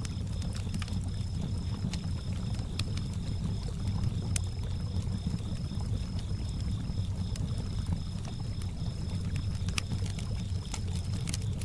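Campfire ambience: a wood fire crackling with scattered sharp pops, over water lapping along a lakeshore, with crickets chirping in a steady pulsing trill.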